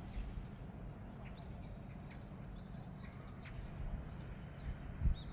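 Small birds chirping: short high calls scattered every half second or so over a steady low rumble, with a soft low thump near the end.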